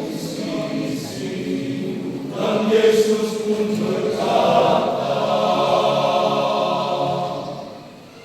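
Men's church choir singing a hymn in parts, swelling into a long held chord about halfway through that fades away near the end.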